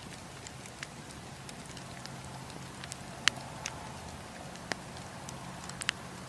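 Wood campfire crackling: irregular sharp pops and snaps over a steady hiss, with the loudest pop about halfway through.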